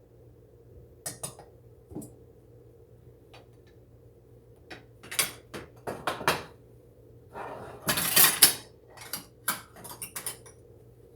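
Kitchen dishes and utensils clinking and clattering in a string of sharp knocks, busiest and loudest about eight seconds in.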